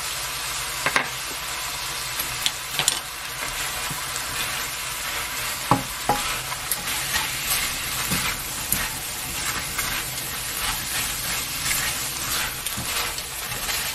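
Small crabs sizzling in hot oil in a nonstick wok as a gochujang-and-soy sauce is stirred through them. A steady frying hiss is broken now and then by scrapes and light knocks of the spoon and spatula against the pan.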